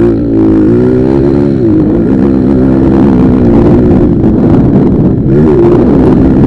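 Several motocross motorcycle engines running hard, revving up and down with the throttle. The loudest one dips and climbs in pitch a few times, with other bikes running underneath.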